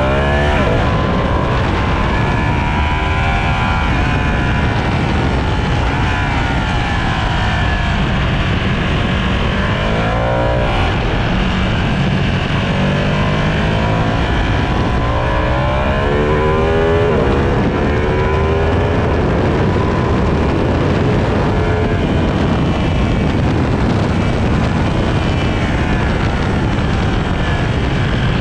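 Sport motorcycle engine at full effort on a race circuit, its note climbing and dropping again and again as it accelerates, shifts and slows into corners, over a constant rush of noise.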